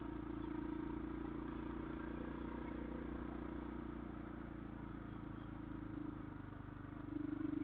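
Motorcycle engine running steadily while riding, growing louder about seven seconds in as the throttle is opened.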